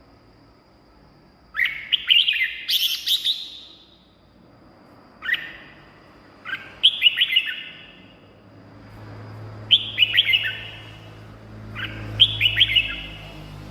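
Red-whiskered bulbul singing: five or six short phrases of quick chirping notes, each lasting about a second, with pauses of a second or two between them.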